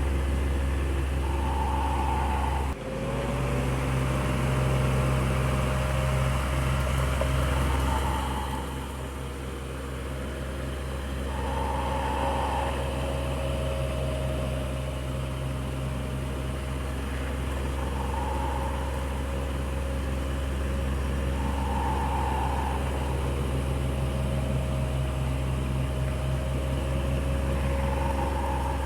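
Electric fan running steadily: a low motor hum and drone, with a faint whir that comes back every few seconds. About three seconds in the sound breaks off briefly and resumes.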